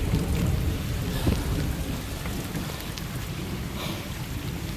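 Rain falling steadily on water and ground, over a steady low rumble.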